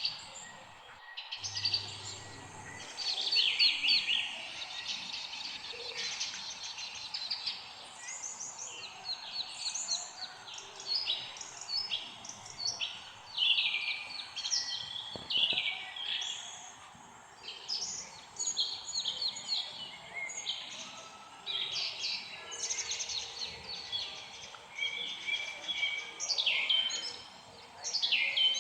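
Several small songbirds chirping and singing at once, in quick repeated chirps and short trills that overlap throughout, over a faint steady background hiss.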